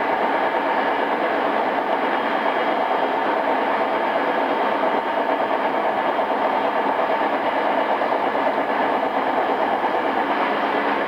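Steady running noise heard inside an E217 series electric motor car on the move, an even rumble with faint steady tones and no marked rail-joint beats, dull in the treble from the cassette-tape recording.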